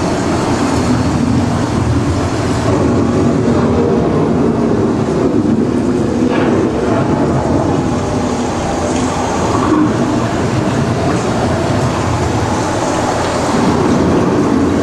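Simulated thunderstorm effects in a boat ride's storm scene: a steady, loud rushing noise with a low rumble underneath.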